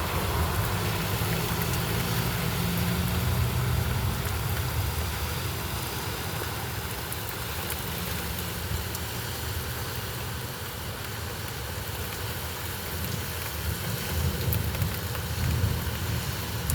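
Summer storm: steady rain with faint scattered drop ticks over a low rumble that swells early on and again towards the end.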